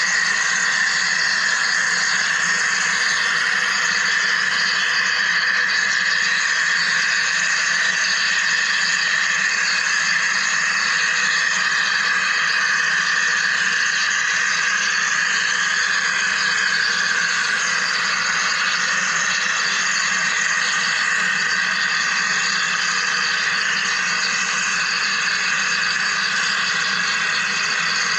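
Wire EDM machine at work: a steady hiss with several high, level tones and a low hum underneath, unchanging throughout.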